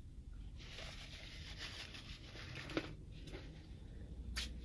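Close-up eating noises: rustling and chewing, with a couple of short sharp clicks, the loudest near the end.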